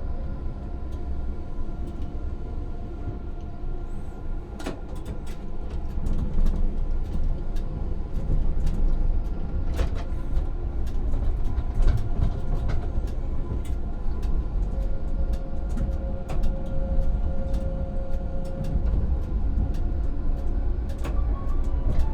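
Electric tram running, heard from inside the driver's cab: a continuous low rumble of wheels on rail under steady whining tones from the drive, with scattered sharp clicks and knocks.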